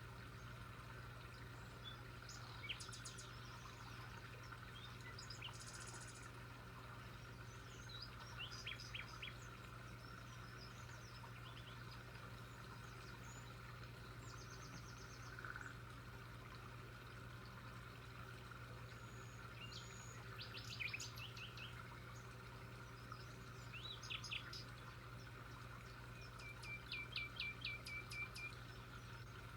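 Birds chirping faintly and intermittently, with a run of quick repeated notes near the end, over a steady low hum.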